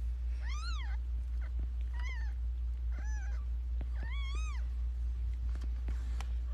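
Newborn premature kitten mewing four times: short, thin, high-pitched cries that rise and fall, over a steady low hum.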